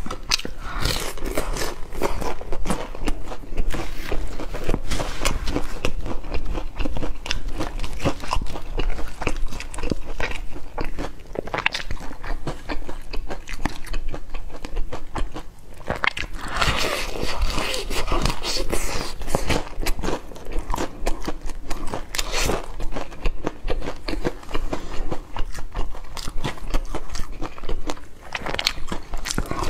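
Close-up biting and chewing of crispy fried chicken: many irregular crunches and crackles of the crust, louder for a few seconds just past the middle.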